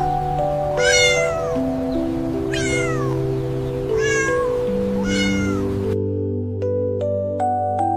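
A cat meowing four times, each meow falling in pitch, over gentle background music with held notes. The meows stop about six seconds in, leaving the music with soft plucked notes.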